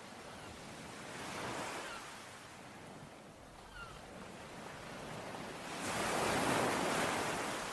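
Ocean waves breaking and washing on a shore, a smaller wave about a second and a half in and a bigger one about six seconds in. A single faint bird chirp comes between them.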